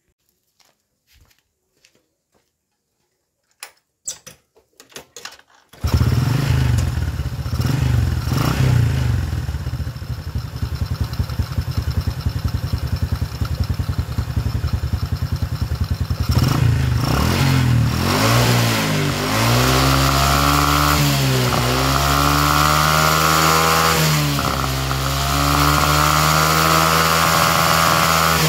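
Honda Karisma (Supra 125) single-cylinder four-stroke engine starting about six seconds in after a few faint clicks, idling, then revved and let off again and again. It keeps running through each throttle release: the test for the stall-on-release fault after the valves were lapped and a sticking intake valve stem freed.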